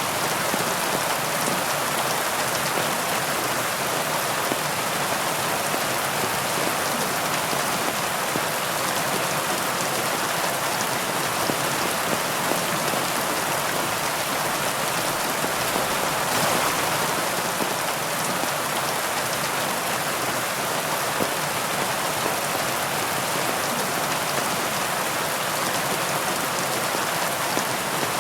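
Steady heavy rain, a dense even hiss of drops falling on surfaces, with a slight swell about two-thirds of the way through.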